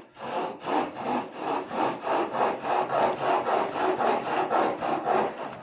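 A saw cutting wood by hand in quick, even strokes, about three a second.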